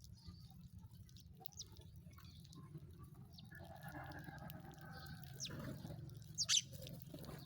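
Sparrows chirping: scattered short chirps over a steady low hum, with one loud, sharp downward chirp about six and a half seconds in. A fainter steady two-note tone sounds for about two seconds midway.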